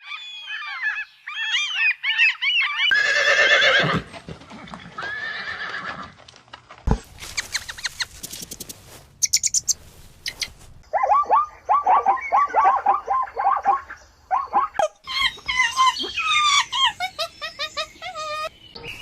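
A run of animal calls cut together from different clips: high chirping, gliding calls at first, a louder call with stacked tones about three seconds in, then rapid repeated chattering calls in the second half.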